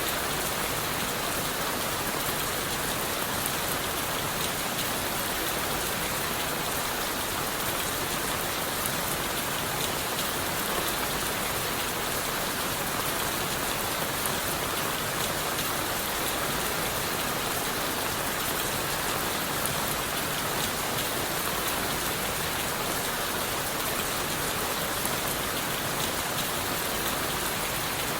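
Steady rain falling on leaves, wood and the forest floor, an even dense hiss with many fine drop patters and no change in intensity.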